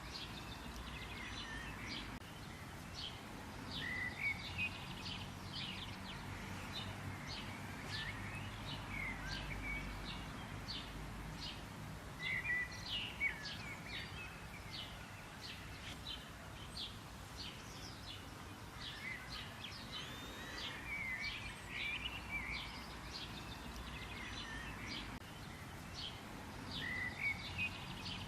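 Songbirds chirping and calling: many quick, high chirps and short sweeps follow one another throughout, over a steady low background noise.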